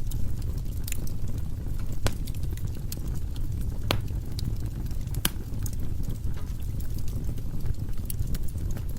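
Firewood burning in a fireplace: a steady low rumble of the flames with scattered sharp crackles and pops, the loudest about two, four and five seconds in.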